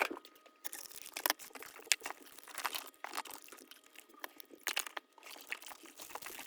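Crinkly packaging rustling and crackling in irregular bursts as small wrapped items are handled and arranged in a box.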